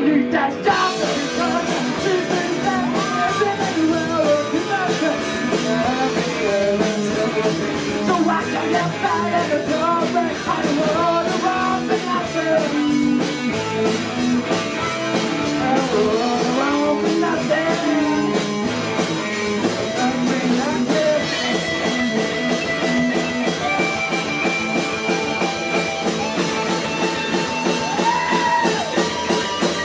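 Live rock band playing a song: electric guitars over a steady drum beat, with a bending melodic line riding on top.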